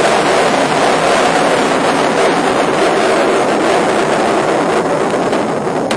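Steady rushing noise of a moving car, road and engine noise running evenly and easing off slightly near the end.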